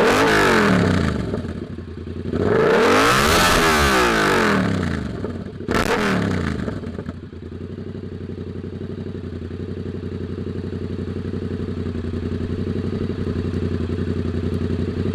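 An engine revved up and down three times, then settling about seven seconds in to a steady idle.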